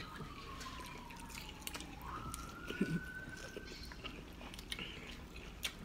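Close, faint chewing and biting of food, with a faint siren wailing underneath, its single tone sliding slowly down for about two seconds and then rising again.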